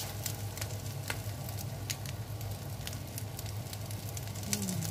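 Rice patties frying in shallow oil in a non-stick pan: a steady sizzle with frequent irregular crackling pops, over a steady low hum.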